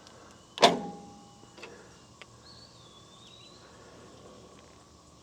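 A sharp metallic clank with a short ring less than a second in, then a lighter click about a second later, as metal parts are handled while setting the sawmill blade down onto gauge blocks. Faint bird chirps in the background.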